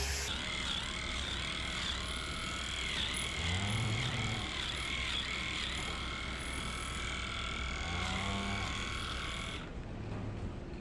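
A machine running with a steady high-pitched whine that dips in pitch at a regular rhythm, then cuts off suddenly about a second before the end.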